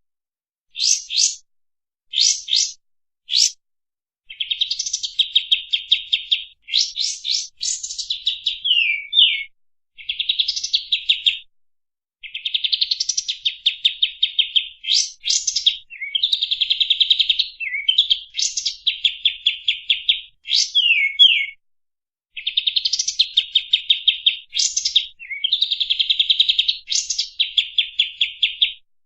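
A kapas tembak songbird singing fast, tightly packed phrases of rapidly repeated high notes, broken by short pauses, with a few quick downward-slurred notes among them.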